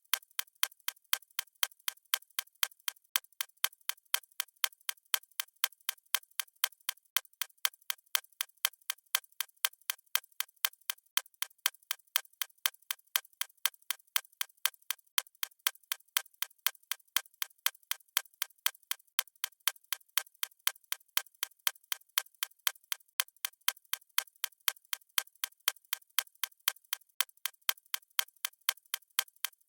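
Clock ticking: steady, evenly spaced ticks.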